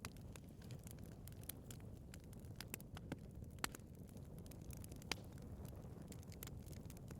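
Wood fire burning in a fireplace: a steady low rumble of the flames with irregular sharp crackles and a few louder pops.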